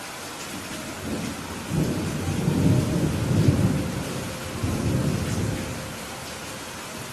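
Steady rain hissing, with a low rumble of thunder that rolls in about a second in, peaks in the middle and fades away near the end.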